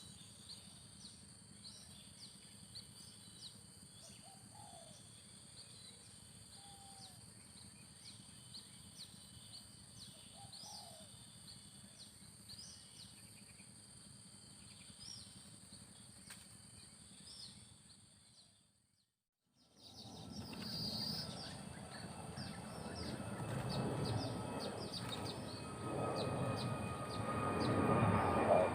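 Faint outdoor ambience with many short, high bird chirps over a steady high insect drone. It cuts out completely for about a second two-thirds of the way through, then comes back louder, with the background noise building toward the end.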